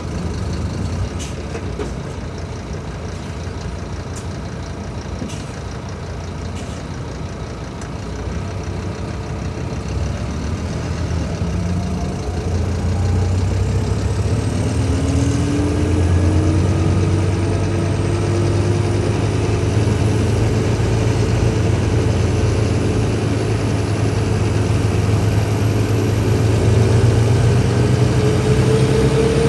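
Scania K310IB bus engine running, first at a low steady speed with a few sharp clicks. From about ten seconds in it grows louder and its note climbs slowly and steadily as it pulls, with a thin high whine rising alongside.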